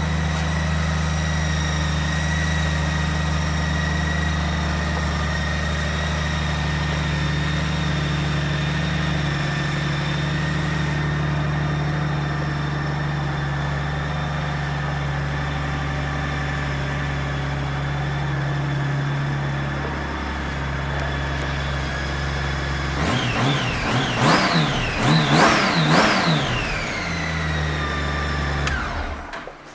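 2014 Honda GL1800 Gold Wing's flat-six engine idling steadily, then blipped through a few quick revs and settling back to idle before being switched off near the end.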